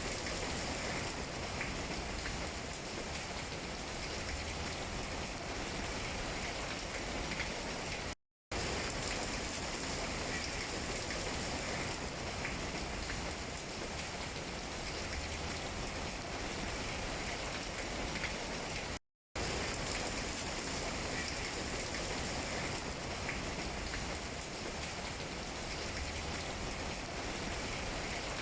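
Steady rain falling on tree leaves: a dense, even hiss with scattered individual drop taps. Twice the sound cuts out to silence for a fraction of a second.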